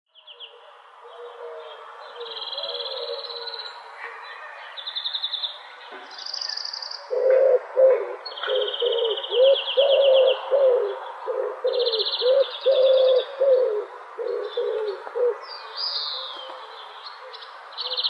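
Birdsong from several birds: short, fast, high trills come and go throughout, and from about seven seconds in a lower-pitched bird joins with a run of short repeated notes, about two a second, the loudest part, stopping near the end.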